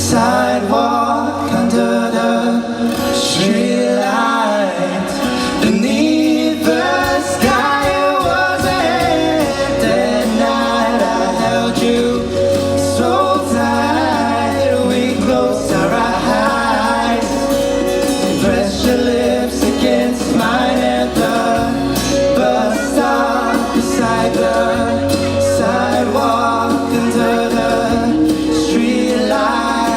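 A live four-piece pop-rock band playing a song, with a singer's voice carried over steady bass and drums.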